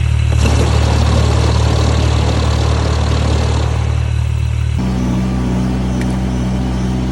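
Snowblower engine running loudly and steadily. Its tone changes about five seconds in.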